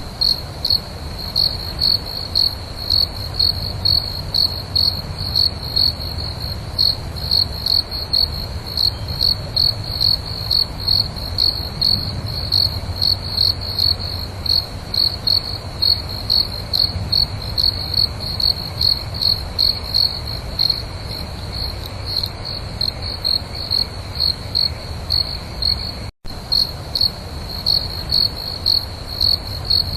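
Cricket chirping steadily, about two chirps a second, over a low rumble. The sound drops out for an instant about 26 seconds in.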